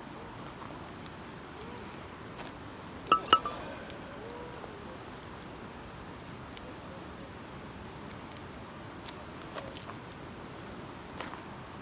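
Wood campfire crackling, with scattered small pops over a steady background noise. About three seconds in come two sharp clinks, a quarter-second apart, each with a short ring.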